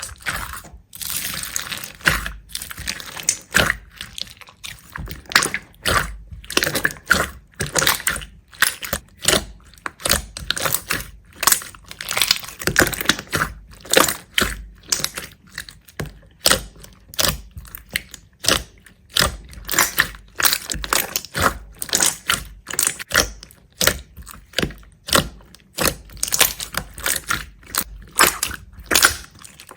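A rapid, uneven series of short, crisp crunching sounds, about two or three a second, from something being pressed, cut or crushed by hand.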